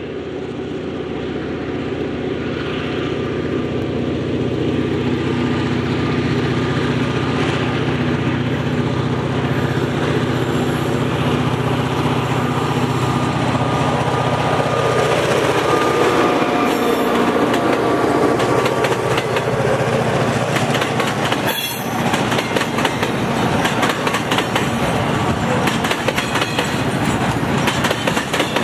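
Diesel locomotive hauling a container freight train away from the yard, its engine sound building as it approaches and passing about halfway through. Then the rhythmic clickety-clack of the container wagons' wheels over rail joints as the train rolls by.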